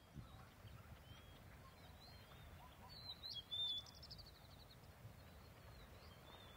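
Faint natural ambience of bird calls: scattered short high chirps over a low steady background. About three seconds in, a louder call is followed by a rapid trill of repeated notes.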